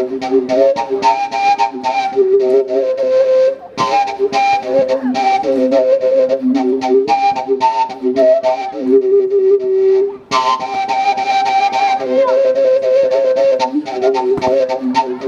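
Live music: a flute playing a melody in phrases, with quick percussive beats throughout. There are short breaks between phrases about 4 and 10 seconds in.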